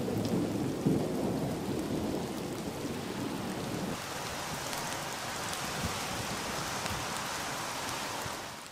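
Rain falling on the ground and into puddles. Over the first four seconds a low rumble sits under it, with a thump about a second in. From about four seconds in there is a steady hiss of rain splashing into shallow puddles.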